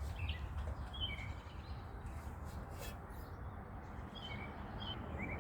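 Small birds chirping now and then in short, high calls over a steady low rumble.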